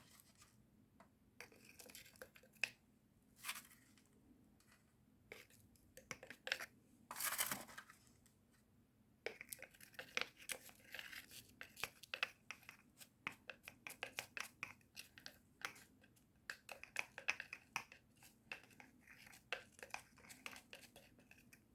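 Faint scratching, rustling and small clicks of potting soil being added and spread by hand in a small terrarium container. A longer pouring rush comes about seven seconds in, and the rustling grows denser from about nine seconds on.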